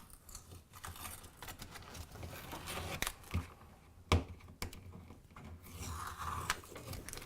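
Faint handling noise at a refrigerator door switch: a few sharp clicks and knocks, with crinkling and rustling in between.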